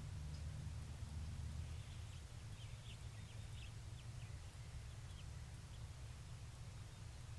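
Faint bird chirps: a quick run of short high notes starting about two seconds in and thinning out a few seconds later, over a steady low hum.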